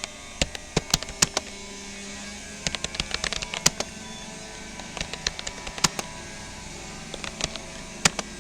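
Keystrokes on a Rapoo computer keyboard: touch typing in uneven bursts of clicks with short pauses between words.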